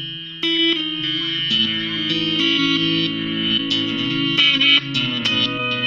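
Artist Guitars STH electric guitar played through a Nux MG-200 modeler with a long delay, simple notes and chords ringing and overlapping with their own repeats.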